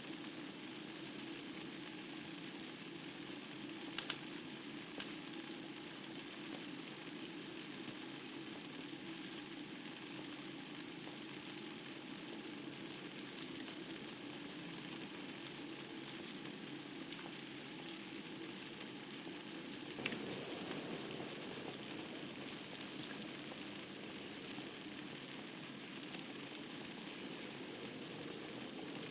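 Wood fire burning in a fireplace: a steady crackling hiss with a few sharp pops of the burning logs, the loudest about twenty seconds in.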